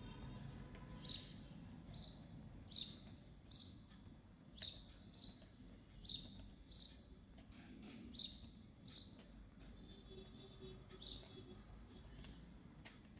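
A bird chirping: a string of about eleven short, high chirps, each falling in pitch, coming roughly every half second to second before stopping near the end.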